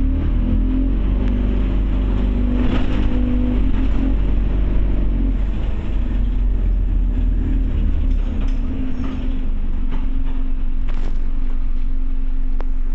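Scania OmniCity bus's diesel engine heard from inside the passenger saloon. It changes note over the first few seconds as the bus pulls, then runs at a steady pitch, with a few faint knocks and rattles.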